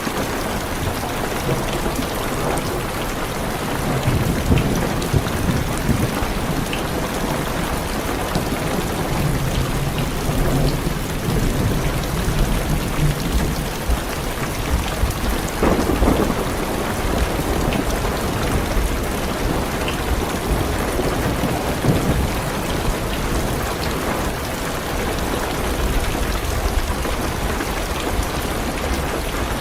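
Heavy rain beating steadily on a car's roof and windows, with thunder rumbling through it several times: long low rolls about four and ten seconds in, and sharper, louder claps about halfway through and again a few seconds later.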